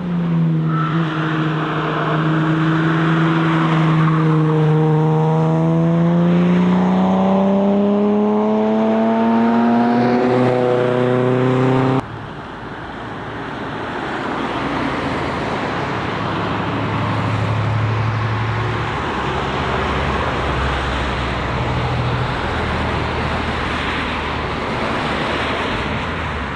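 Classic car's engine easing off through a slow corner, then accelerating away with its pitch climbing steadily. About twelve seconds in, the sound cuts abruptly to another car passing at lower revs with rougher road noise.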